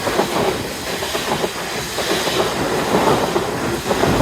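Passenger train running through the station at close range, its wheels clattering steadily over the rails.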